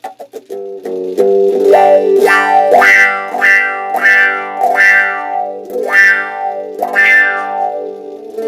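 Electric guitar chords played through a Mooer envelope filter (auto-wah) pedal. Each strum opens bright and then darkens as the filter sweeps closed while the chord rings. The chords come in an uneven rhythm, short and clipped in the first second.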